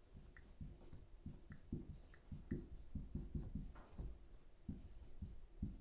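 Faint scratching and tapping of writing by hand, in short irregular strokes, in a small room.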